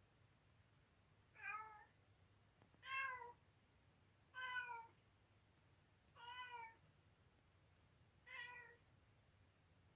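An elderly domestic cat meowing five times, short calls spaced about one and a half to two seconds apart.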